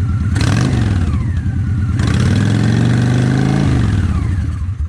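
Honda Shadow ACE 750 Deluxe's V-twin engine revved twice, each rev rising and then falling back, with a short burst of noise as the first one opens. The engine dies just before the end, which the owner puts down to the bike running low on gas; he says it still backfires after a carburetor cleaning.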